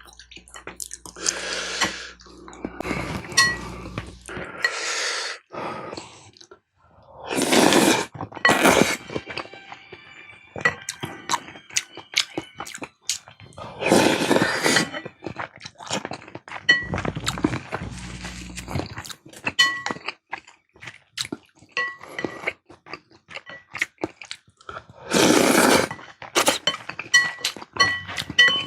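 Close-miked eating of spicy beef soup with rice and side dishes: wet chewing, many short clicks of spoon and chopsticks against the bowl, some with a brief metallic ring, and a few longer bursts of about a second, heard as slurps, around 8, 14 and 25 seconds in.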